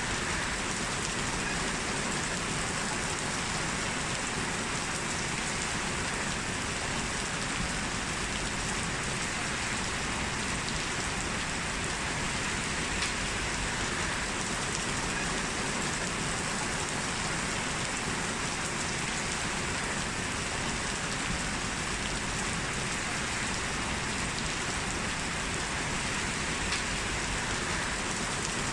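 Heavy rain falling steadily on a street, an even hiss with the patter of drops and an occasional faint click of a single drop.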